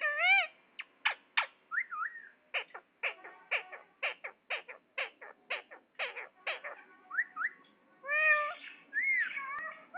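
Ring-necked parakeet giving a fast series of short, sharp squawks, about two a second, with warbling speech-like phrases at the start and again near the end.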